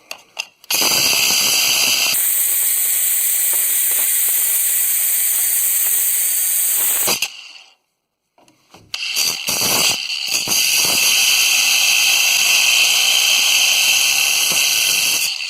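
An abrasive cut-off disc spinning and cutting through a rusted steel U-bolt, a loud steady grinding hiss with a high whine. It runs in two long cuts with a short pause between them.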